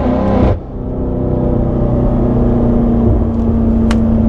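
BMW M5 Competition's twin-turbo V8 pulling with a rising note, which cuts off sharply about half a second in. It then settles into a steady drone with road rumble. A single sharp click comes near the end.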